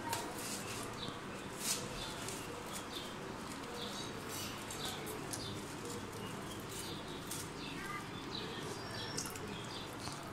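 Birds chirping: many short, high chirps scattered throughout, over a steady background hiss.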